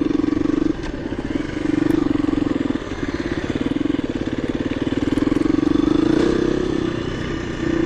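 KTM 350 EXC-F single-cylinder four-stroke dirt bike engine running as it is ridden. The note drops out briefly a few times as the throttle is rolled off and back on, and climbs a little near the end.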